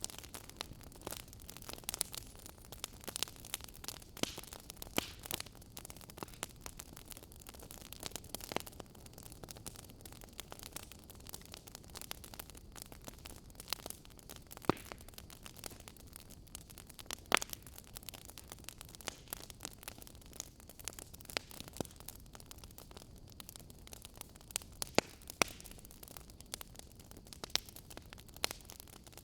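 Wood fire burning: a steady low rush with irregular crackles and sharp pops of burning wood.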